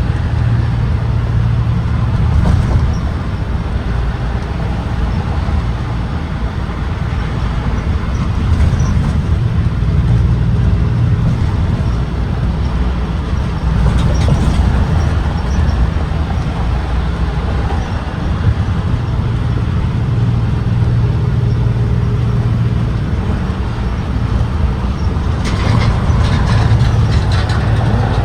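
A propane-powered Blue Bird Vision school bus running, with a steady low engine and road rumble that swells and eases slowly. Near the end a few seconds of higher hissing and rattling come in on top.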